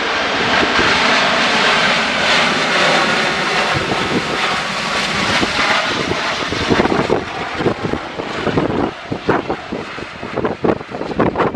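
The jet engines of an Airbus A320-232 (IAE V2500s) run loud as the airliner comes in to land. The noise falls away after about seven seconds, and irregular gusts of wind buffet the microphone.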